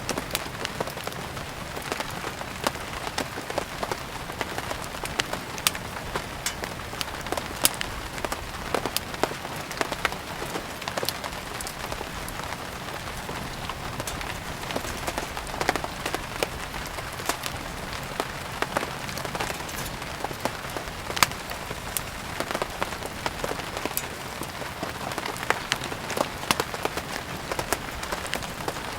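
Steady rain hissing, mixed with a wood fire burning, with frequent sharp, irregular crackles and pops throughout.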